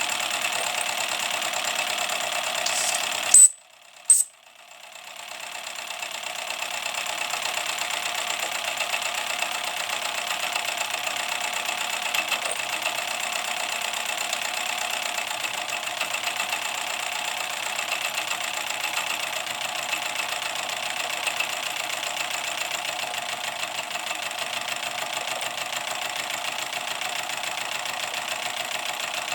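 Small MSS side tank live-steam garden railway locomotive running steadily on its first run-in, its steam exhaust and motion making a continuous light clatter. About three and a half seconds in there are two sharp loud cracks, after which the sound drops out briefly and fades back up.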